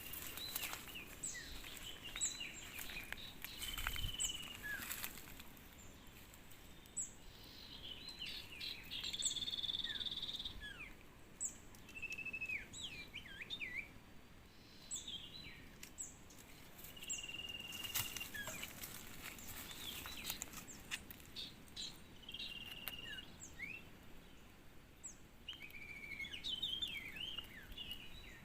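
Small birds chirping and whistling: quick falling chirps mixed with short clear level whistles that recur every few seconds. Among them are common iora (cipoh) calls used as a lure to bring wild ioras down to the lime sticks.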